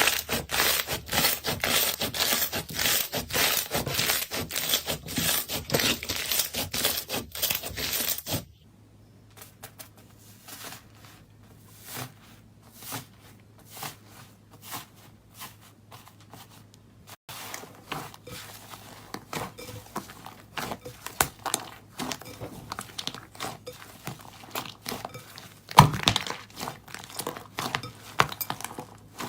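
Slime being squished and pressed by hand, a dense run of crackling clicks and pops; about eight seconds in it changes abruptly to quieter, sparser pops and squelches.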